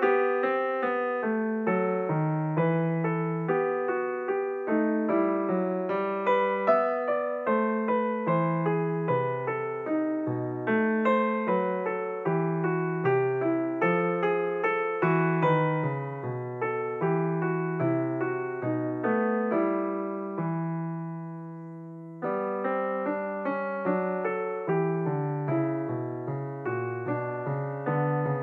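Background music of solo piano playing a steady melody of single notes and chords, each note dying away. About three-quarters through, a held chord fades out for a couple of seconds before the playing picks up again.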